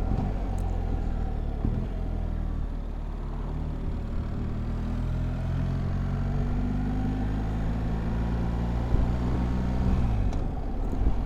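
BMW R1300GS boxer-twin motorcycle engine under way on the road, with wind noise. The engine note climbs gradually, holds, then drops about ten seconds in.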